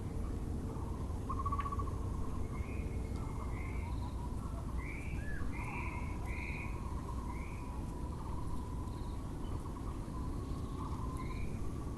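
Several birds calling, among them Muller's barbet, over a steady low background noise: trilled notes lower down and a run of short higher notes, busiest about five to eight seconds in.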